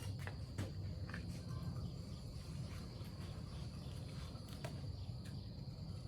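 Faint scattered clicks and light taps over a steady low hum and a thin, steady high-pitched tone.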